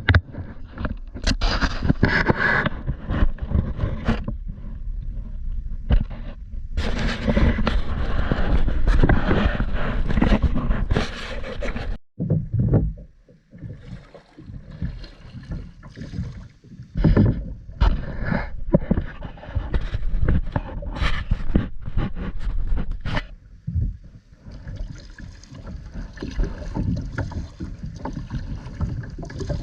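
Kayak on the water: irregular knocks and scrapes against the hull over a strong, uneven low rumble, with a brief lull about twelve seconds in.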